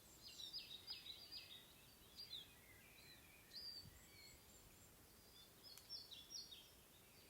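Faint songbird chirps: quick runs of short, high, falling notes, heard in a few bursts over a quiet outdoor background hiss.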